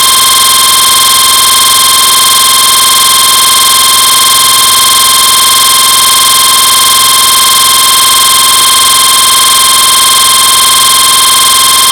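Loud, steady electronic buzz made of many fixed tones, which cuts off suddenly at the end: the audio fault of a Samsung Galaxy Note GT-N7000 running CyanogenMod 12.1.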